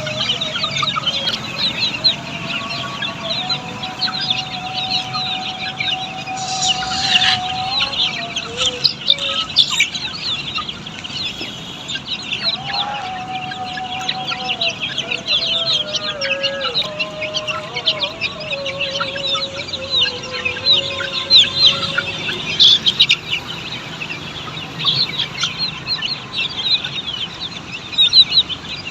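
A flock of Australorp chicks peeping constantly in many short, high chirps. Two long, lower drawn-out calls sound over them, the first a few seconds in and the second from about 13 to 21 seconds.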